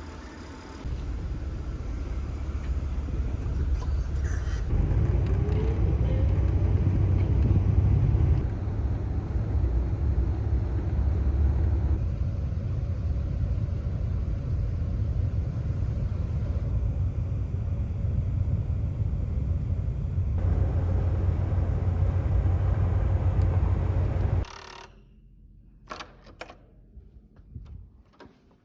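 Low, steady vehicle rumble in several spliced stretches, with a brief rising pitch a few seconds in. It stops abruptly about 25 seconds in, giving way to a quiet room with a few clicks and knocks.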